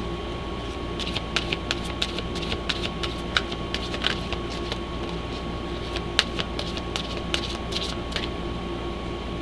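Light, irregular clicks and snaps of a deck of oracle cards being handled and shuffled, in clusters, over a steady hum.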